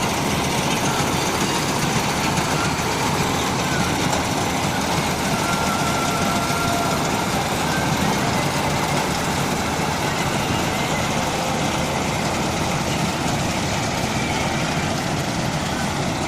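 Combine harvester running steadily, its engine and machinery making a continuous loud din.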